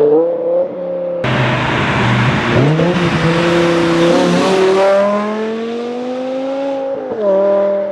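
A car's engine revving hard as it accelerates by, its pitch climbing steadily, then dropping sharply at a gear change about seven seconds in.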